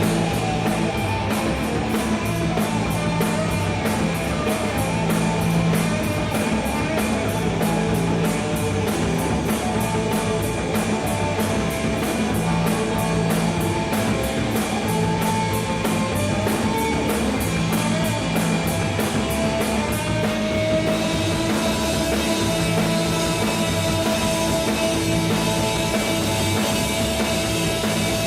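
Punk rock trio of electric guitar, bass and drum kit playing live in an instrumental stretch with no singing, over a fast, steady drumbeat. About twenty seconds in, the cymbals turn to a continuous wash and a long held tone comes in.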